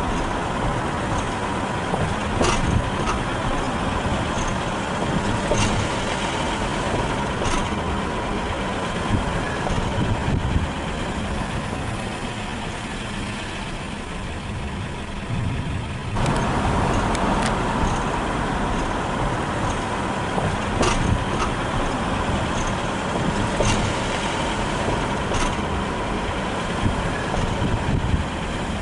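Car driving, with steady engine and road noise heard from inside the cabin, a few light clicks and rattles, and a quieter stretch past the middle before it picks up again.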